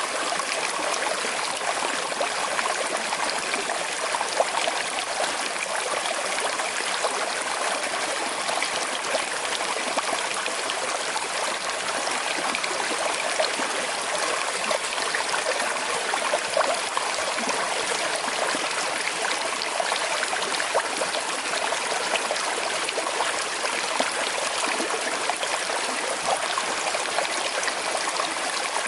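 Small river flowing over stones with a slight current: a steady rush of water with fine trickling and splashing detail.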